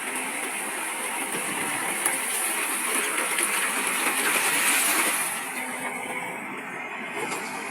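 Heavy construction machinery working, a steady noisy clatter that swells for a few seconds about halfway through, then eases off.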